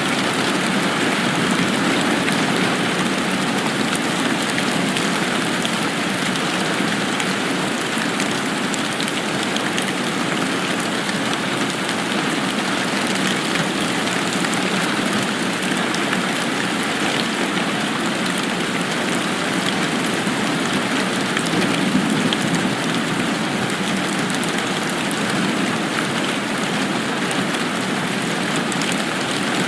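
Steady rain falling, a dense even hiss with fine individual drop patters on a surface.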